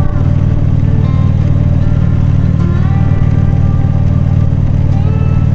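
Harley-Davidson V-twin motorcycle engine running steadily at cruising speed, its exhaust a constant low, even drone.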